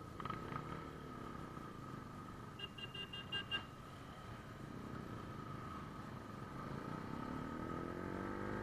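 Motorcycle engine, muffled, running low and then revving up in the last couple of seconds as the bike pulls away. A quick run of short electronic beeps sounds about three seconds in, over a steady faint high whine.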